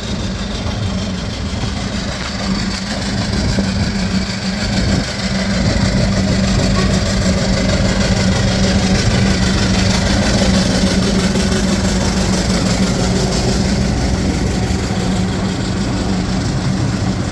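A large engine running steadily with a loud, constant hum, growing louder over the first few seconds and then holding level.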